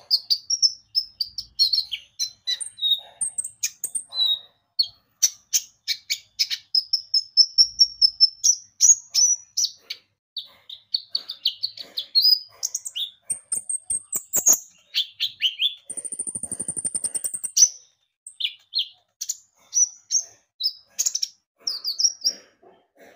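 Kolibri ninja (konin) sunbird singing vigorously: a fast, unbroken run of high chirps, slurred whistled notes and short twitters. About two thirds of the way through comes a quick, buzzy, very high trill.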